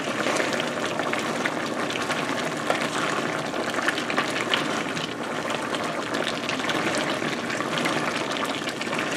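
Squirrel meat sizzling in a frying pan while it is stirred with a wooden spatula: a steady hiss with many small crackles and pops.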